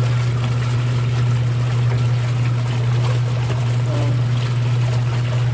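Toshiba 12 kg manual twin-tub washing machine's wash tub running on a rinse: a loud steady motor hum with water churning in the tub.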